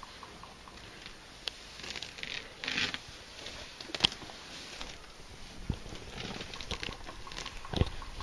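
Elephants feeding at close range: irregular rustling and tearing of grass and brush, with scattered crackles and a couple of sharper snaps with a low thud, about four seconds in and near the end.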